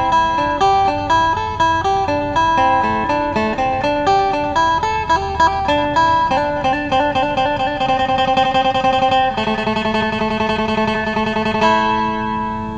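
Phin, the Isan plucked lute, playing a quick melody of plucked notes over a steady drone, moving into rapid tremolo-picked notes past the middle.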